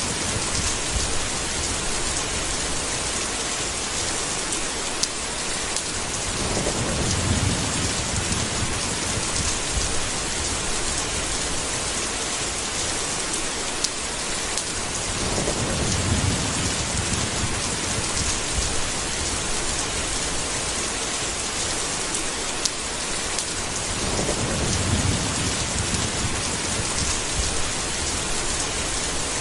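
Steady, heavy rain with low rumbles of thunder that swell three times, about nine seconds apart.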